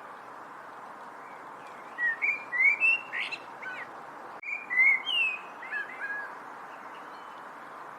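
A songbird sings two short phrases of quick, rising and falling whistled chirps, separated by a brief pause, over a steady background hiss.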